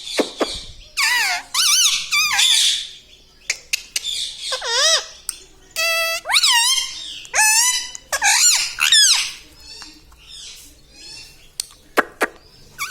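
Talking parrot giving a run of short, high-pitched squeaky calls and chattering, some of them mimicked words, with bending, wavering pitch; it goes quieter near the end.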